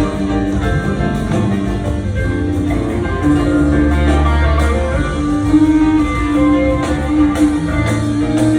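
Live rock band playing an instrumental jam: electric guitar lines with held notes over bass and drums.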